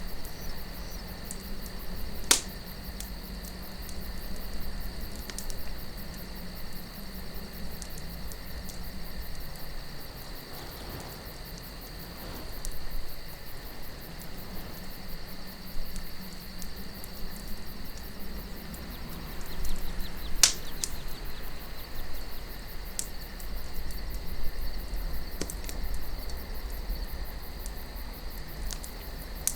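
Wood campfire crackling with scattered small pops and two sharp loud snaps, one about two seconds in and one about two-thirds through. Crickets chirp steadily over it, with a low rumble of wind underneath.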